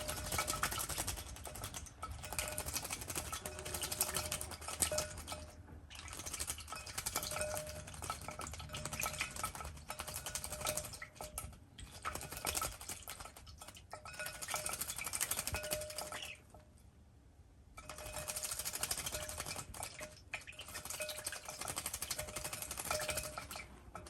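A small pet bird bathing in a ceramic pie dish of water, splashing and flicking water with many small patters and clinks against the dish. It comes in bouts with short pauses, and one longer lull about two-thirds of the way through.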